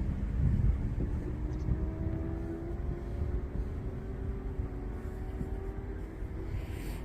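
Jet aircraft engines: a low rumble with a faint steady hum, slowly fading as the plane moves away.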